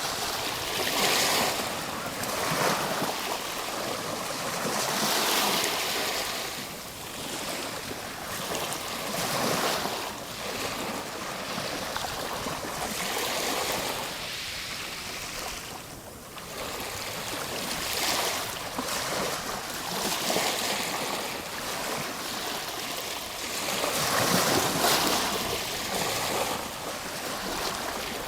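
Ocean surf: waves breaking and washing in, a continuous rush that swells and eases every few seconds, with a brief lull about halfway through.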